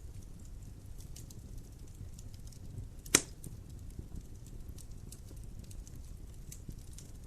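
Wood fire burning in a fireplace, crackling with scattered small clicks over a low rumble, and one loud pop about three seconds in.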